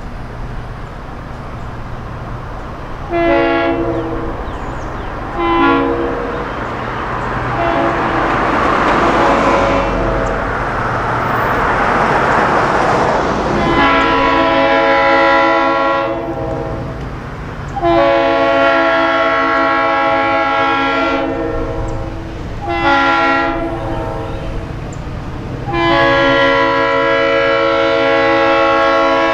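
EMD diesel locomotive's air horn sounding two short blasts, then the grade-crossing signal of long, long, short, long. The two short blasts are the signal that the train is proceeding. A rushing noise is heard between the two groups of blasts.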